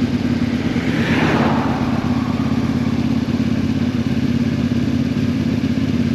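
Motorcycle engine running at a steady pitch under road and wind noise. About a second in, a short rushing swell rises and falls away.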